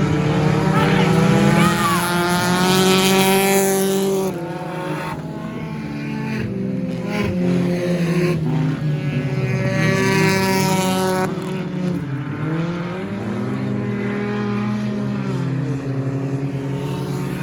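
Several stock car engines running at racing speed as the field laps the oval, their notes rising and falling as cars go by. The two loudest passes come at the start and about nine seconds in.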